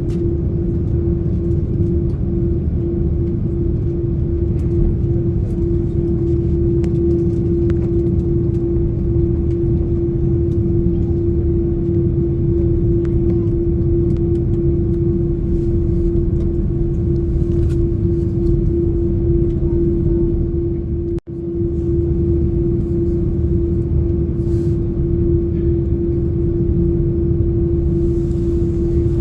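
Airliner cabin noise on an Airbus A330-300 with GE CF6-80 engines, most likely while taxiing. A steady low rumble carries a constant humming tone that does not rise or fall. The sound briefly cuts out about 21 seconds in.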